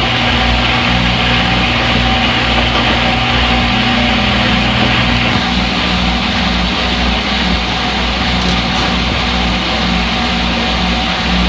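Front-load washing machine running with a steady motor whir and hum; some of the low hum tones shift pitch about halfway through.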